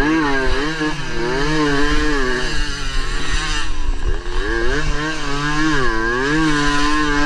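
Suzuki AX100's two-stroke single-cylinder engine racing under load, its pitch rising and falling several times as the throttle is opened and closed through the corners.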